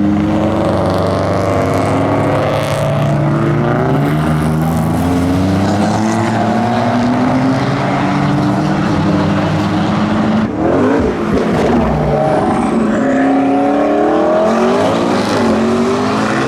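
Modified car engines running and accelerating, their note rising in pitch several times as they pull away, with a brief break about ten seconds in before another climbs.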